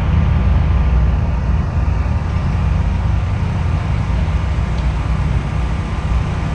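Race cars running at full throttle down the drag strip, a loud, steady low rumble of engines.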